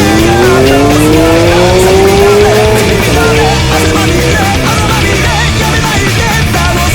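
Heavy rock music playing, with a Honda CB1300's inline-four engine rising steadily in pitch for about three seconds as the bike accelerates, then holding steady.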